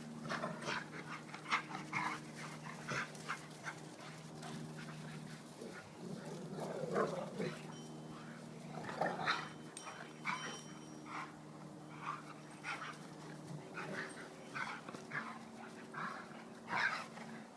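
Two dogs play-fighting: many quick scuffles and knocks, with short growls and whines now and then.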